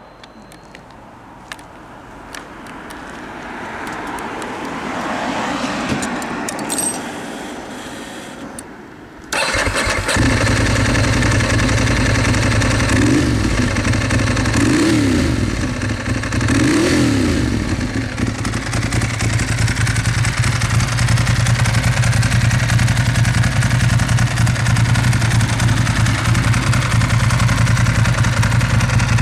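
Ducati Monster S4RS's L-twin engine, breathing through a custom exhaust, starts up suddenly about nine seconds in after a quieter stretch. It is blipped three times, its pitch rising and falling each time, then settles to a steady idle.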